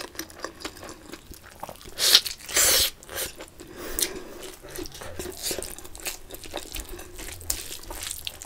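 Close-miked chewing of a mouthful of egg curry and rice, with many small wet mouth clicks and two louder noisy bursts about two seconds in.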